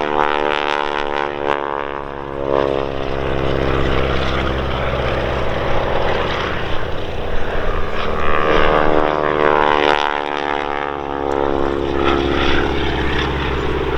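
Boeing Stearman wingwalking biplane's radial engine and propeller droning in flight, the pitch sliding down, then rising and falling again about two-thirds of the way through as the aircraft passes and manoeuvres.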